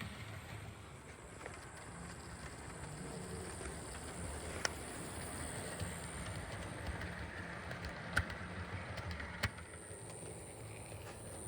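HO scale brass model steam locomotive running on the track: a faint steady low hum of the motor and gearbox with a thin high whine, broken by three sharp clicks.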